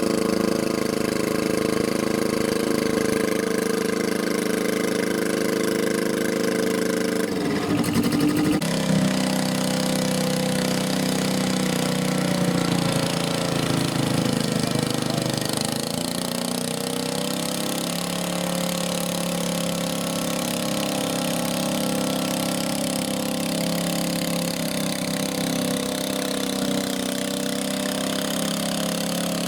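Small garden tractor engine running steadily. About eight seconds in its note shifts, and it runs on slightly quieter at an even speed.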